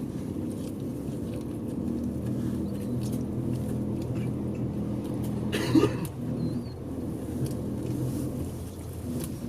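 Diesel bus engine running steadily while driving, heard from inside the passenger cabin, with one brief sharp noise about six seconds in.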